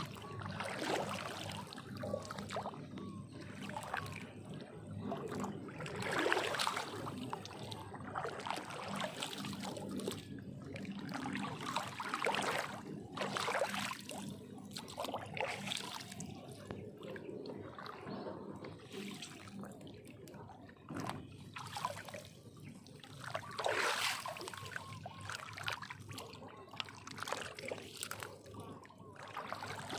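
Water sloshing, trickling and splashing in irregular bursts, with louder splashes about six, thirteen and twenty-four seconds in.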